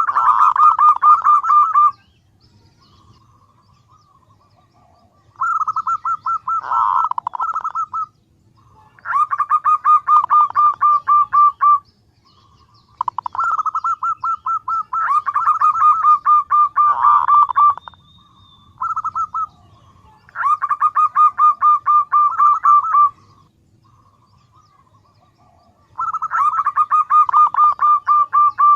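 Female zebra dove (perkutut) calling: a fast string of short notes, given in about seven bouts of two to five seconds with short pauses between. This is the call used to lure male zebra doves.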